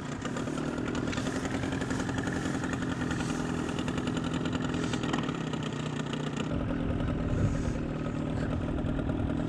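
An engine idling steadily close by, its low rumble getting deeper and heavier about six and a half seconds in.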